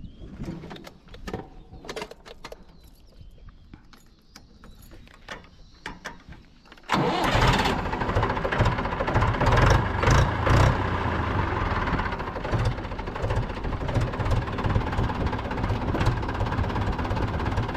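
Mahindra 475 DI tractor's 2730 cc four-cylinder diesel engine starting about seven seconds in, then running loudly with a steady low pulsing. Before it, only scattered light clicks.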